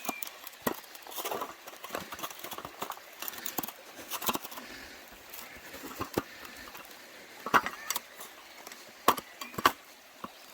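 Small folding camping tabletop being folded up by hand: a run of irregular clicks, clacks and rattles, the loudest coming in a cluster near the end.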